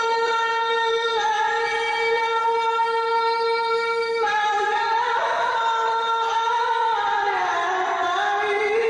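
A single high, strong singing voice holding one long note for about four seconds, then stepping to new notes and ending with quick wavering turns up and down in pitch.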